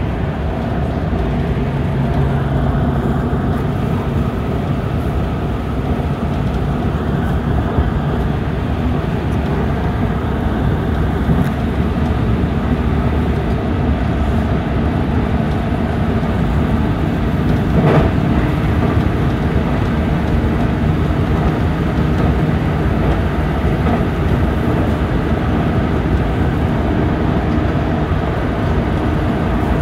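Running noise of a JR Central 313-series electric train heard from inside its front car: a steady rumble of wheels on rail while it travels at speed. One sharp click stands out about eighteen seconds in.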